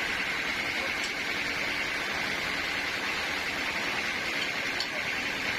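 Sawmill saw running with a steady, even hiss and a high whine, without pause.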